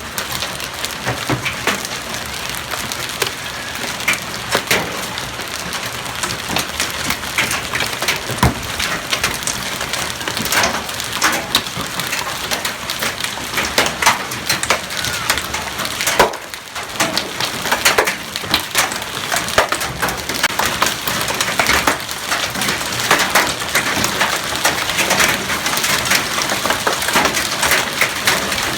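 Hailstones pelting down, a dense, continuous clatter of hard impacts over a steady hiss.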